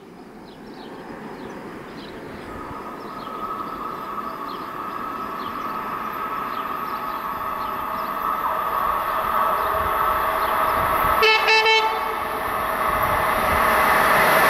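A Hellas Sprinter electric locomotive hauling a passenger train approaches, its rumble and a steady whine growing louder throughout. About eleven seconds in, the train sounds a short horn blast lasting under a second.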